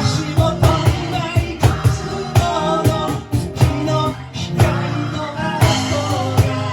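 Rock band playing a song with a steady drum beat, bass and guitar, and a melody line wavering over them.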